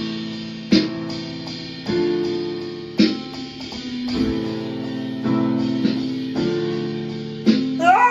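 Background music: guitar strummed in slow chords, about one strum a second, with sustained ringing notes.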